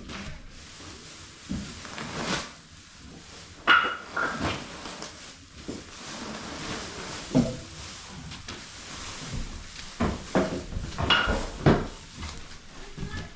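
Scattered knocks and clattering, with a couple of short squeaks about four seconds in and again near the end.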